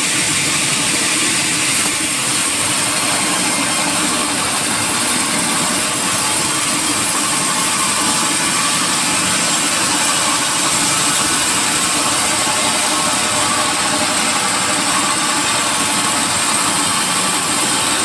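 Sawmill machinery running steadily, a loud even noise with a high hiss that does not change.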